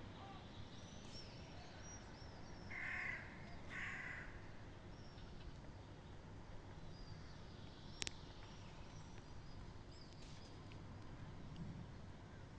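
A crow calling two harsh caws about three and four seconds in, with small birds chirping faintly and high in the background. A single sharp click sounds a little after the middle.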